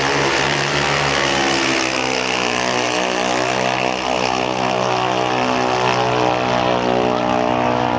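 A vehicle engine droning loudly at one steady pitch, with no rise in revs or gear changes, starting and cutting off abruptly.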